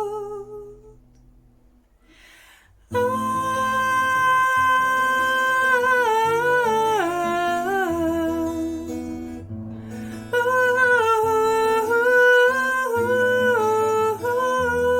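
A woman's voice hums or sings a wordless melody of long held notes with slow pitch glides, accompanied by acoustic guitar. It enters about three seconds in, after a brief hush with a breath.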